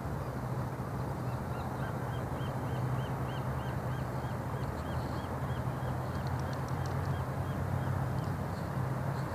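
A bird calling in a long, even series of short high notes, about three a second, over a steady low rumble.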